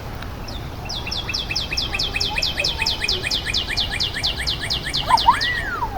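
A forest bird singing a long, fast trill of short falling notes, about six or seven a second, for several seconds. A single rising-then-falling whistle sounds near the end.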